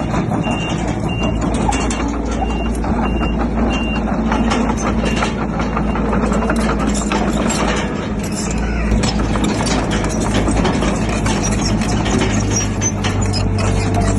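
Heavy diesel engine of a bulldozer running steadily under constant metallic clatter. A reversing alarm beeps about twice a second and stops about four seconds in.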